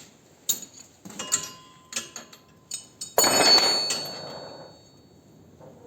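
Metal tools and parts clinking: a few light taps, then a loud metallic clatter about three seconds in that rings briefly, and another clank at the very end.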